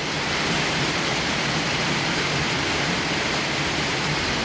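Heavy thunderstorm rain pouring down in a steady, even rush.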